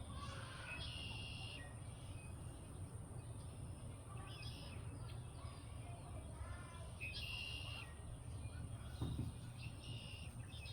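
A bird repeating a short buzzy call about every three seconds, four times, over a steady low rumble. A soft low knock comes near the end.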